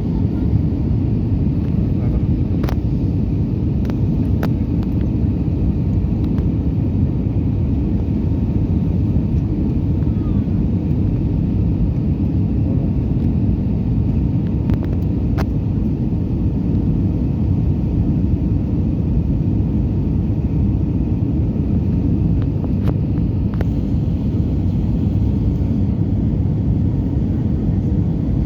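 Steady rumble of engine and airflow noise inside the cabin of an Airbus A320-200 in flight, heard from a window seat, with a few faint clicks.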